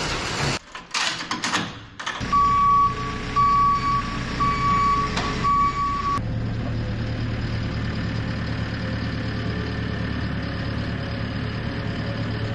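A farm vehicle's reversing alarm beeps four times, about once a second, over its engine running. The beeps stop and the engine carries on running steadily.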